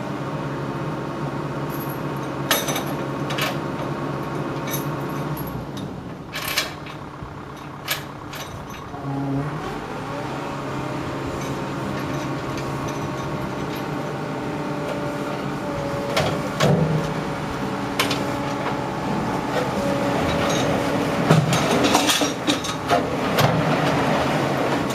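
A vehicle engine running steadily, with scattered clanks and rattles of metal. It gets louder and busier over the last few seconds.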